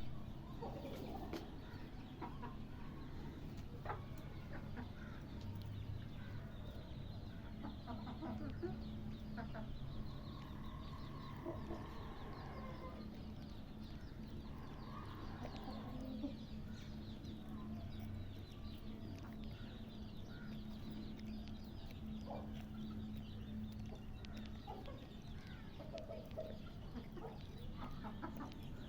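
Many birds calling in short, overlapping calls, with a steady low hum underneath.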